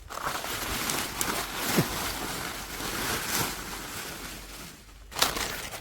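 Steady rustling and scraping of dry banana-plant debris being pulled aside by hand, dying down about five seconds in.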